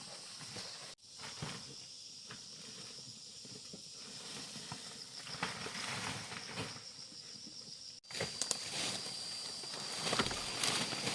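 Rustling and scraping in dry brush and leaves, with scattered light taps, over a steady high insect buzz that comes in strongly about eight seconds in. The sound cuts out abruptly about a second in and again near eight seconds.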